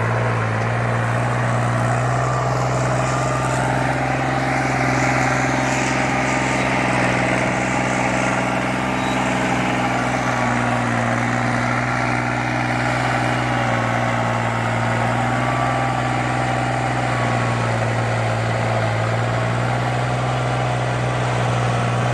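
New Holland tractor's diesel engine running at a steady speed, a constant low drone with only slight rises and falls in pitch.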